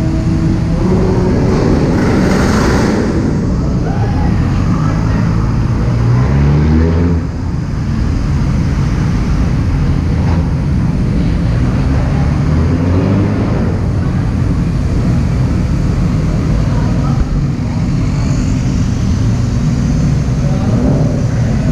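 Car engines accelerating past one after another, echoing under a concrete car-park roof. One engine revs up sharply about six to seven seconds in, and smaller rises in engine pitch follow.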